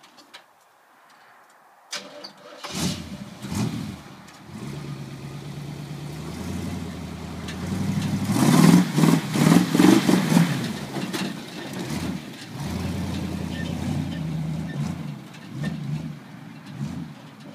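A 1973 Chevrolet C-20 4x4 pickup's engine starting up about two and a half seconds in, blipped twice, then revved harder and climbing to its loudest around the middle before rising and falling at lower revs.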